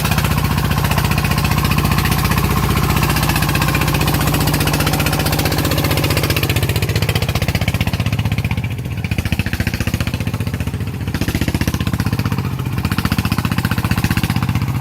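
Small farm diesel engine running steadily with a fast, even knocking beat, easing off briefly twice about halfway through.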